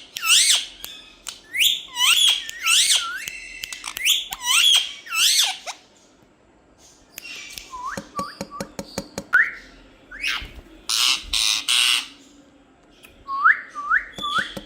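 Pet parrot calling: a fast run of shrill, rising-and-falling whistled notes for about five seconds, then a quieter spell with some clicks and a couple of harsh squawks, and a few more whistled notes near the end.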